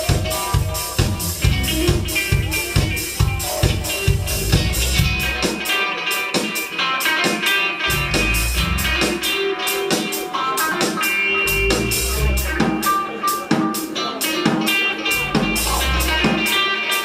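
Live band playing an instrumental passage with electric guitar, bass and a steady drum-kit beat; the bass drops out briefly about six seconds in and comes back about two seconds later.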